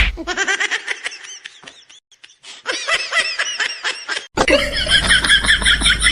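High-pitched laughter in quick runs of short ha-ha pulses. It fades off and starts again, and about four seconds in there is an abrupt change to louder laughter over a low rumble.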